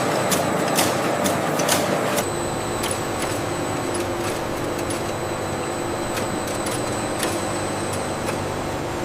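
Factory machinery running steadily, with sharp regular clicks about twice a second at first. About two seconds in these give way to a smoother, steady machine noise with occasional ticks.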